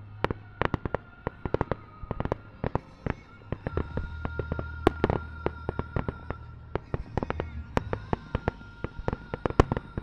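Fireworks starmine barrage: shells burst in rapid succession as a dense string of sharp cracks and bangs, the loudest about five seconds in and again near the end. Music plays steadily underneath.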